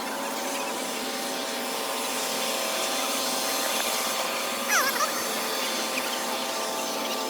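Steady mechanical whirring hum, with a brief high gliding squeak about five seconds in.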